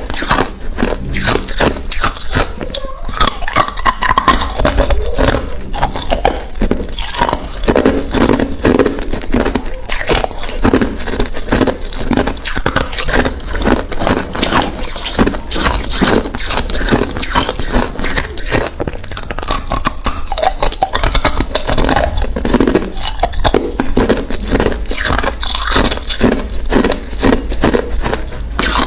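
Hard ice cubes being bitten and chewed close to the microphone: a continuous run of rapid, loud cracking crunches.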